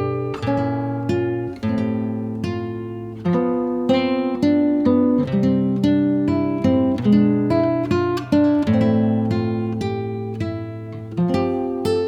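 Background music: an acoustic guitar playing a run of plucked notes and chords, each note fading after it is struck.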